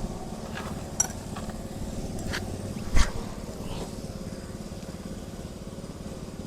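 A steady low engine hum, like a motor idling, with a few sharp clicks or snaps over it; the loudest comes about three seconds in.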